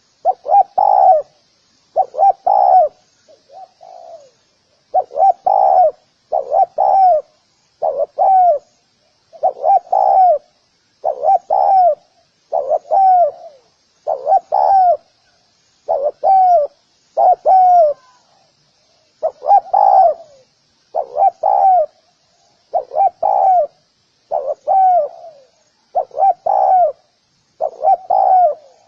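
Spotted dove cooing repeatedly: a steady run of short, soft coos, mostly in quick pairs, about one pair every one and a half to two seconds.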